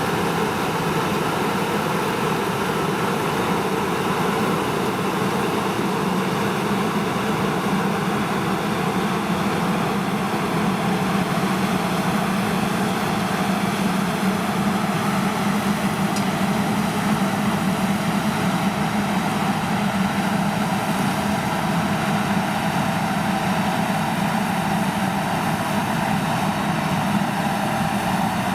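Heavy John Deere diesel farm machinery running steadily, an unbroken engine drone with no changes in pitch.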